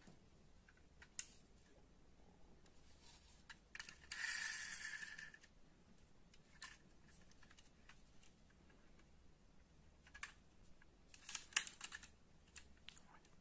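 Faint clicks and taps from a small die-cast metal model car being handled, with a short scraping rustle about four seconds in and a quick run of clicks near the end.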